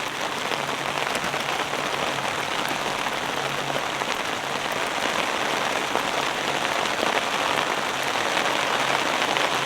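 Steady rain falling on the fabric of a camping shelter, an even patter with no breaks, in a storm mixed with snow.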